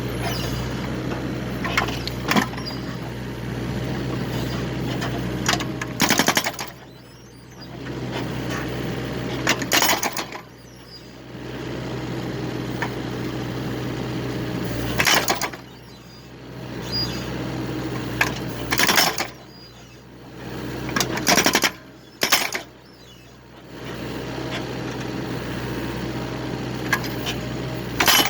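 Excavator engine running steadily while logs are split, with about seven loud, sharp cracks every few seconds, each followed by a brief lull in the engine noise.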